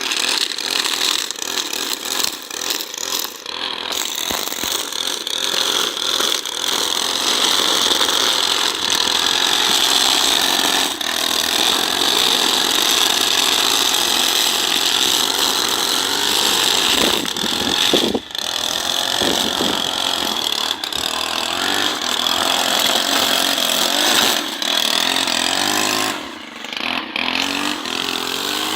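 STIHL FS 90R brushcutter running at high revs while cutting, its engine note wavering as the load changes, with brief drops in revs about two-thirds of the way through and again near the end.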